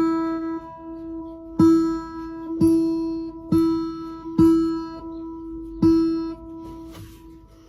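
A plucked string instrument is struck about six times at uneven intervals. The same note rings on between strikes and dies away near the end.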